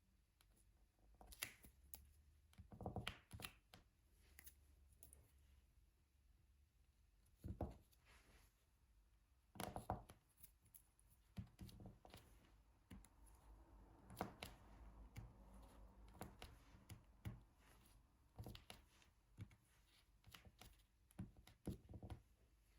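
Faint, irregular taps, clicks and light rustles of diamond-painting handwork: a drill pen picking up small resin drills and pressing them onto the sticky canvas. There are a few louder clusters of taps and a soft rustle part-way through.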